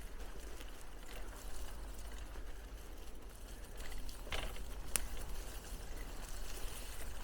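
Bicycle riding: steady tyre noise and light rattling with a low wind rumble on the microphone, and two sharp clicks a little past the middle.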